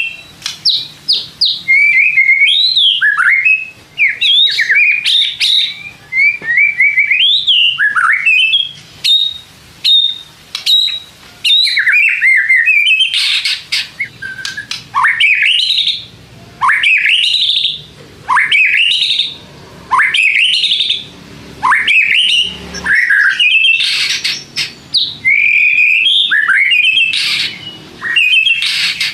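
White-rumped shama (murai batu) singing loudly and without pause: a fast, varied run of clear whistles, sweeping glides and rapid trills, broken by harsh rasping notes.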